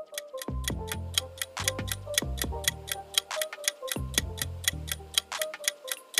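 Countdown timer sound effect: a clock ticking rapidly and evenly over light background music with a repeating bass line.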